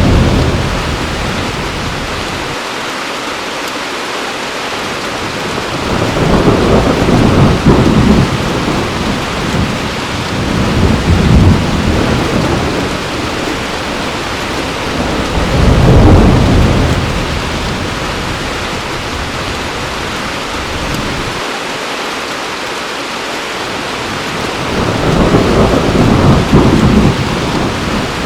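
Heavy rain falling steadily, with low rolls of thunder that rumble up and fade away four times.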